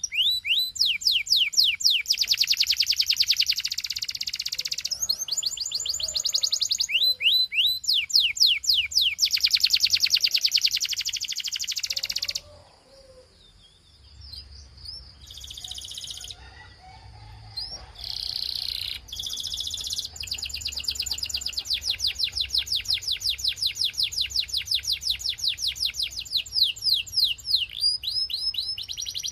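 Belgian canary singing in long, rapid trills of repeated high notes, broken by a brief quieter pause about halfway through before another long trill.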